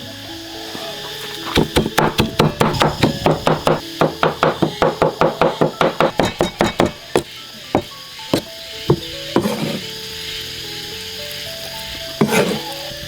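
A cleaver chopping on a wooden cutting board: a fast, even run of strokes, about four or five a second, for some six seconds, then a few single chops and one heavier knock near the end, over background music.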